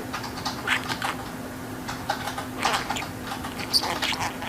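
Budgerigar chattering: a run of quick clicks and short chirps.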